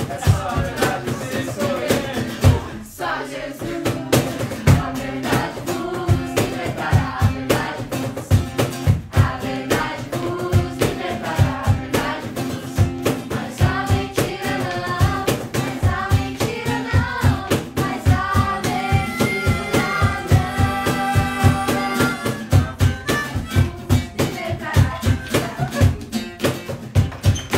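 A praise song sung with a band accompaniment over a steady drum beat.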